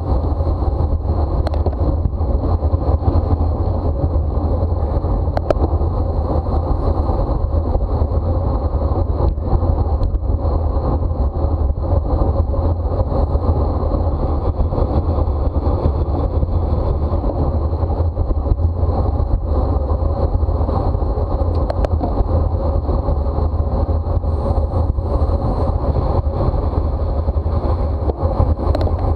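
Steady rush of wind buffeting the microphone of a camera riding along on a racing bicycle at speed, with road noise underneath.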